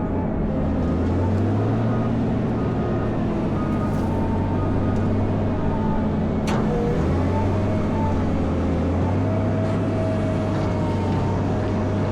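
Caterpillar 140M motor grader's diesel engine running steadily, a constant low drone with a faint wavering whine above it. A single sharp tick comes about halfway through.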